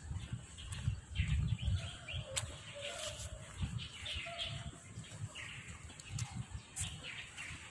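Small birds chirping in the surrounding trees, short calls scattered throughout, over irregular low rumbles on the microphone.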